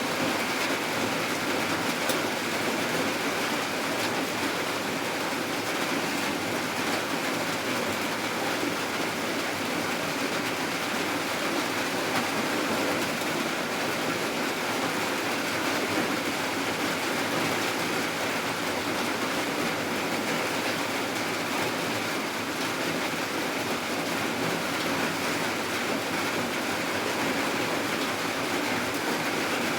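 Steady rain falling at night: an even, unbroken hiss of rain with no separate drops or thunder standing out.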